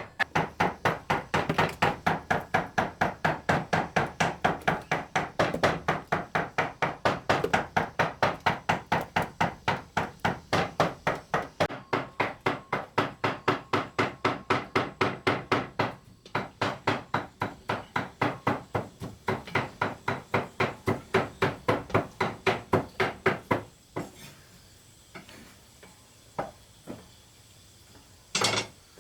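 A tool striking wood in a steady rhythm, about three blows a second, with a brief break about two-thirds of the way through. The blows stop near the end, leaving a few faint knocks.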